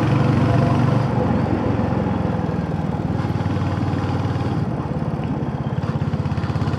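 Royal Enfield Hunter 350's single-cylinder engine running under way. About a second in the engine note drops a little and its separate firing beats come through more plainly.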